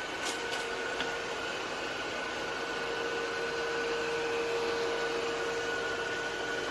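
ECOVACS DEEBOT T80 Omni robot vacuum-mop running with a steady whir and a thin high whine. A lower hum joins in just after the start, and there are a couple of faint clicks in the first second.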